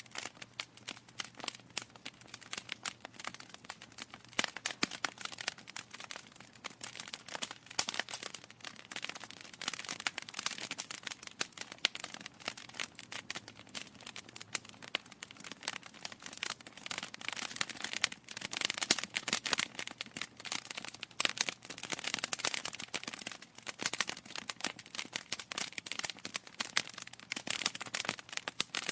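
Wood logs burning in a fireplace, crackling with a dense, irregular run of sharp snaps and pops that grows a little busier and louder in the second half.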